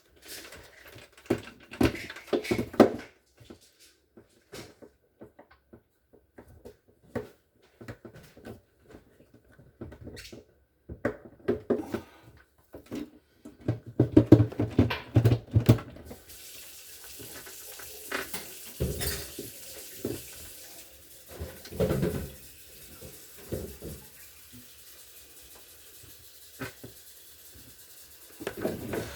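Irregular knocks, clunks and rattles of plastic refrigerator parts being handled and moved, heaviest about two seconds in and again midway; a steady hiss comes in about halfway through.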